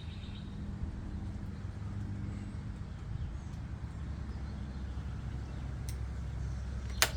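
Lawn mower engine running steadily, its note dropping a little about halfway through. A single sharp metallic click near the end, from a hand tool.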